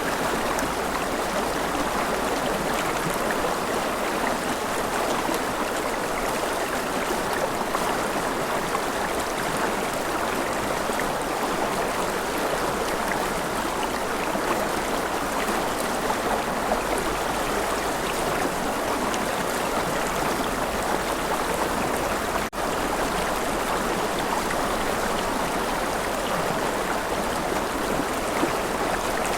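River water flowing steadily, an even rushing of water with no breaks, except for a split-second dip in level about three-quarters of the way through.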